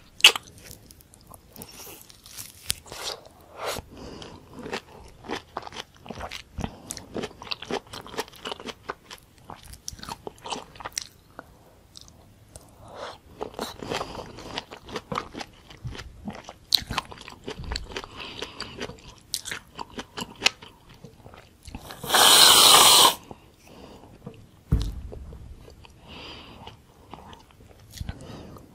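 Biting and chewing orange slices topped with whipped cream: wet bites and chewing in irregular bursts. About three-quarters of the way in comes one much louder noisy sound lasting about a second.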